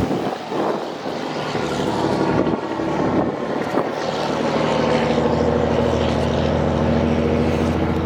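An engine running steadily, a low hum with its pitch drifting slowly.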